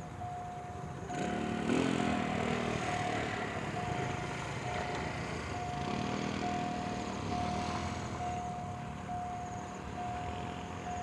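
Level-crossing warning signal sounding a steady repeated tone while a diesel freight train hauled by a CSR locomotive passes, its engine noise swelling about a second in.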